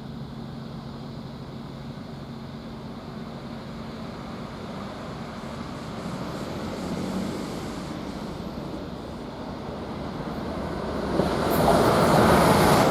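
Greater Anglia Class 745 electric multiple unit approaching and running through the station at speed: a steady rumble that slowly builds, then gets much louder about eleven seconds in as the train reaches the platform.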